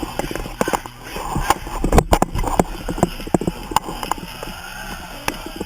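A crowd of people moshing and jumping in the rain: irregular slaps and thuds of feet on wet ground, with scattered shouting voices.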